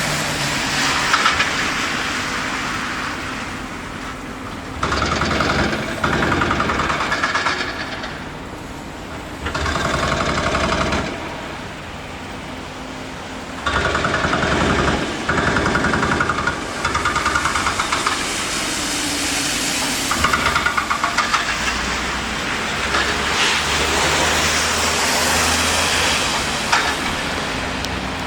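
Vehicle engines and traffic noise with a rattling engine note, cutting in and out abruptly several times.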